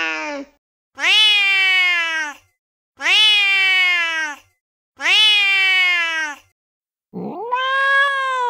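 Recorded angry cat meows from a soundboard app. The same drawn-out meow plays three times, about two seconds apart, each falling slightly in pitch. Near the end comes a long yowl that swoops up in pitch and holds.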